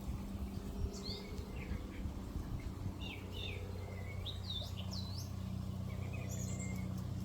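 A songbird singing a run of quick, swooping chirps, with a low steady hum underneath.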